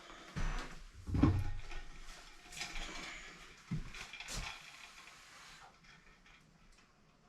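A few scattered knocks and light clatter of handling in a small room, then a faint room tone from about five seconds in.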